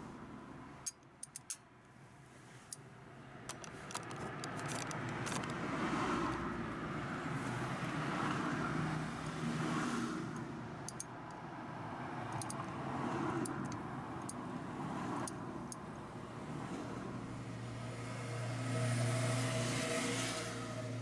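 Motor vehicle sound that swells and fades several times, with a few light clicks about a second in.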